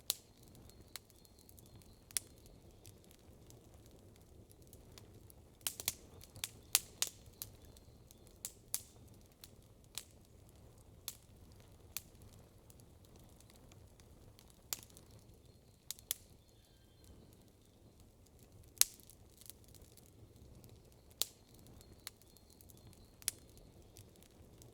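Wood campfire crackling: irregular sharp pops and snaps over a faint low background. A quick run of pops comes about six seconds in, and the loudest snap comes well past the middle.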